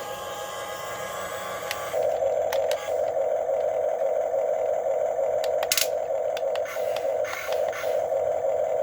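Small electric motors of a Huina 1550 RC excavator whirring in a steady buzz. The buzz grows stronger about two seconds in and breaks off briefly a few times as the controls change. Scattered clicks and light scraping run with it, with one sharper click about six seconds in.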